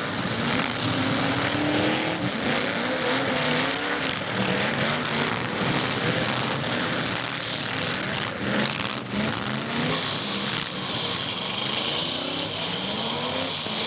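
Several demolition derby trucks' engines revving up and down at once, over a steady din of noise.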